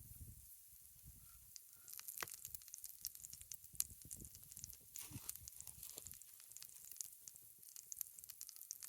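Faint crackling and popping from a campfire with a cast iron skillet of pancakes cooking over it. The pops start about two seconds in and come irregularly and rapidly.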